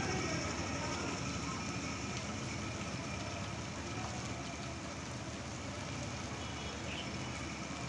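Heavy rain falling and floodwater running down a street, a steady hiss that holds level throughout.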